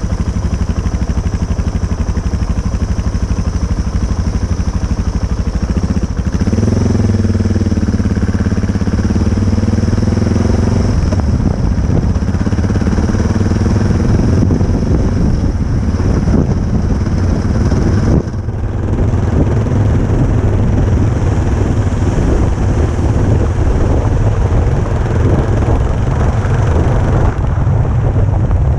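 Motorcycle engine running steadily, its pitch rising and falling between about six and eleven seconds in, with a brief dip in level a little past halfway.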